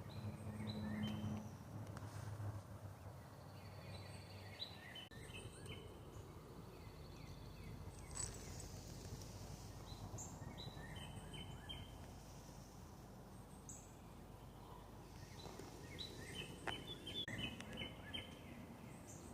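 Faint bird chirps: short high notes in scattered clusters, over a steady outdoor hiss.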